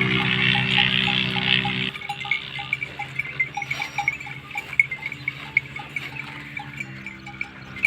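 Bells on grazing livestock clinking in a regular rhythm, about three to four strikes a second, under a low steady drone that is loud for the first two seconds, drops away, and returns near the end.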